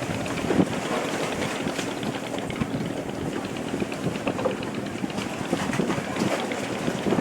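Wind buffeting the microphone over the steady running noise of a fishing boat under way at sea.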